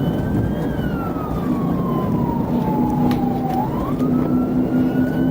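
Police car siren in a slow wail, climbing in pitch for about two seconds and then sliding down for about three, over loud road and engine noise.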